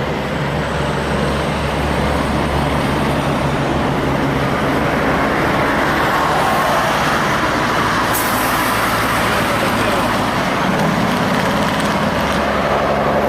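Heavy diesel truck engines running in steady road traffic, with a brief high hiss about eight seconds in.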